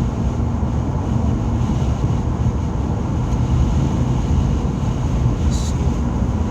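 Steady low rumble of road and engine noise inside a moving car's cabin, with a short hiss about five and a half seconds in.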